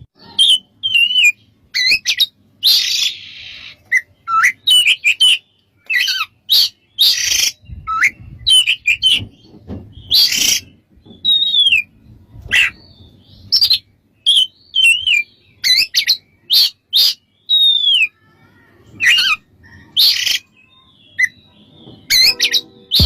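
Oriental magpie-robin singing: a rapid, varied run of loud sharp chirps and clear whistled notes, several of them sliding downward.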